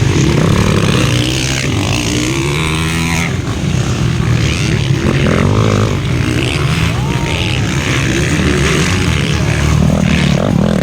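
Motocross bikes racing, their engines revving up and falling off again and again as they ride the course.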